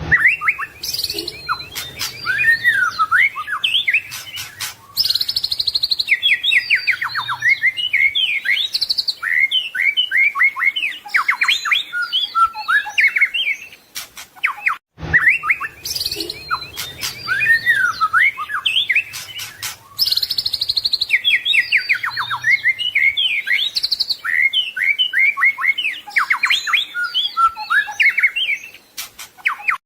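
White-rumped shama (murai batu) singing a long, varied song of rapid whistles, sweeps and trills packed with mimicked phrases; the same stretch of song repeats about halfway through.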